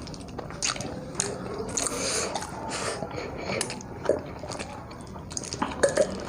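Close-miked eating sounds: wet chewing, smacking and biting, with many quick irregular clicks.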